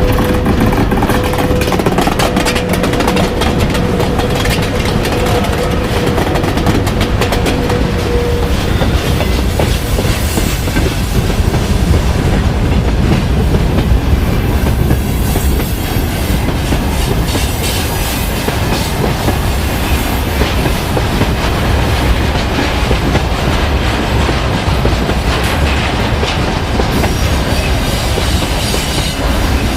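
Freight train running past behind VL80S electric locomotives, its wheels clacking over the rail joints. A steady tone sounds through the first several seconds.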